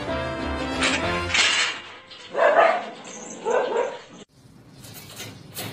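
Dog barking twice, about a second apart, each bark short and loud, after a few seconds of background music that stops abruptly.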